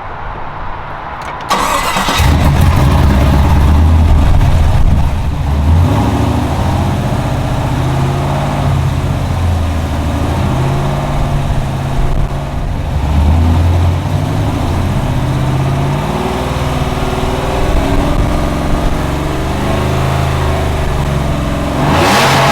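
GM 5.3-litre LT V8 truck engine cranking and starting about a second and a half in, then running, its note rising and falling a few times.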